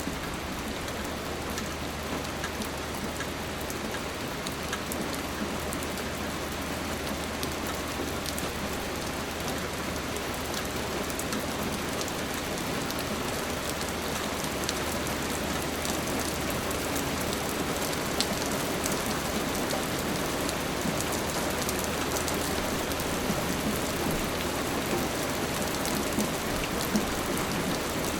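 Steady rain falling, a dense hiss of drops with many small individual drop ticks on a surface, slowly swelling a little louder.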